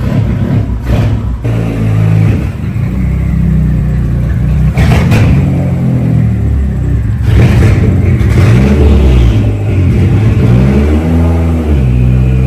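Turbocharged Nissan Hardbody pickup's engine revving up and down several times at low speed as the manual-transmission truck is driven onto the chassis dynamometer.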